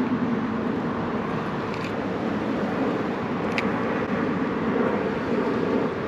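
Steady distant motor traffic, an even engine hum that holds level throughout, with one faint click about three and a half seconds in.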